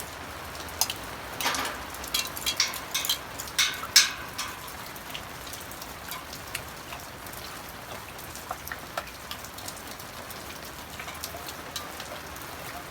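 Steady rain falling, with a run of sharp clicks and knocks in the first four seconds or so, the loudest about four seconds in, and only scattered light ticks after that.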